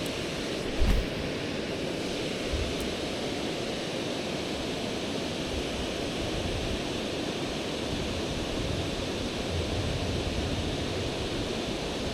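Steady rush of river current flowing around a wading angler. A brief low bump about a second in.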